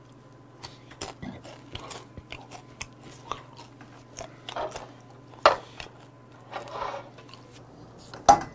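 Close-up crunching and chewing of dry bar snacks: irregular crisp crunches with short pauses between bites. Near the end, a single sharp crack as the cap is levered off a beer bottle.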